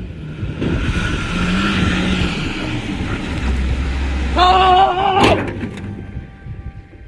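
A motor vehicle running on a road, with a loud pitched blare about a second long a little past halfway, ending in a sharp knock.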